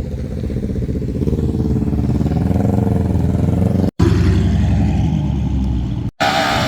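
A vehicle engine running steadily, with revs rising slightly about halfway through. The sound breaks off abruptly twice for a split second.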